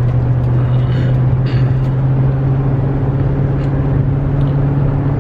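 Inside the cab of a 2016 Toyota Tundra on the move, a steady low drone of the V8 engine and road noise, with a few faint ticks about a second in.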